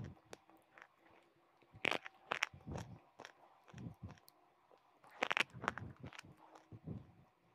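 Close-miked biting and crunching of hard, brittle chalk-like pieces. There are two sharp crunching bites, about two and five seconds in, each followed by a few seconds of gritty chewing.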